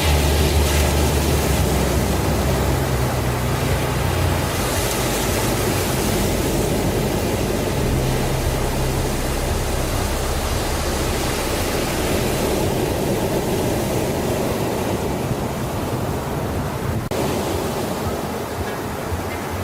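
Steady rushing noise like surf or a storm, even and unbroken, over a low sustained drone whose pitch shifts a few times.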